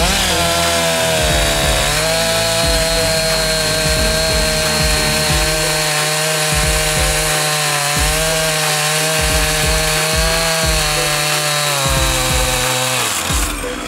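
Chainsaw cutting into the base of a hedge stem, making the pleaching cut for hedgelaying. The engine's pitch drops as the chain bites into the wood about two seconds in, then holds under load with slight rises and falls. It falls away near the end as the cut is finished.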